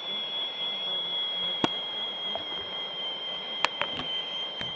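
A steady high-pitched whine, slowly sinking a little in pitch, with a few sharp clicks: one a little over a second in and a cluster near the end.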